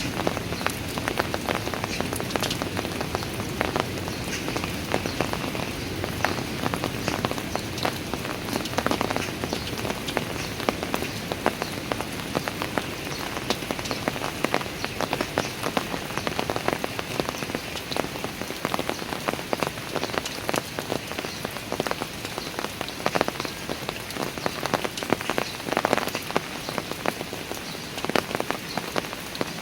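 Steady rain falling on hard outdoor surfaces, with many separate drops pattering and splashing close by.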